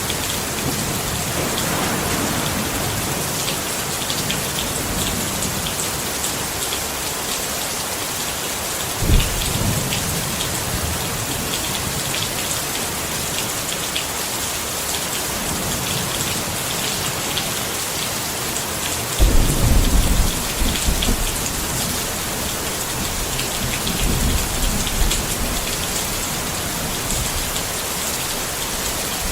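Steady rain pattering on a tent, with low rumbles of thunder: a short one about nine seconds in, a longer and louder roll around twenty seconds in, and a weaker one a few seconds later.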